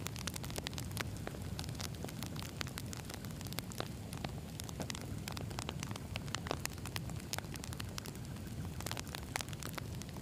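Wood campfire burning: logs crackling and popping in many sharp, irregular snaps over a steady low rumble of flame.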